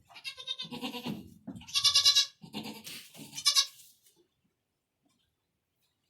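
Goat bleating: three high-pitched calls in the first four seconds, the middle one the loudest, then quiet.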